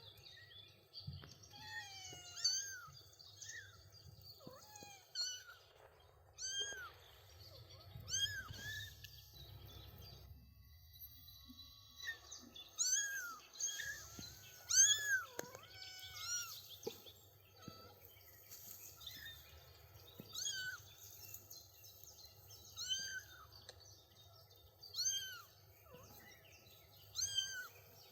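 Three-week-old kittens mewing over and over: many short, high-pitched mews that rise and fall, with a pause of about two seconds midway.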